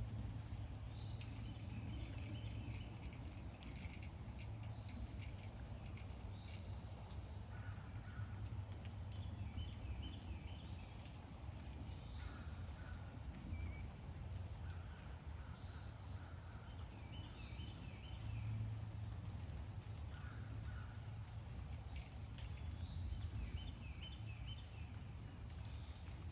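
Backyard songbirds chirping in short, repeated bursts every couple of seconds, over a steady low hum.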